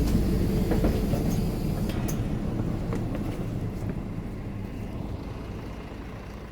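Mercedes-Benz O530 Citaro Facelift Ü bus heard from inside, its diesel engine running with a low rumble and light rattles, fading out gradually.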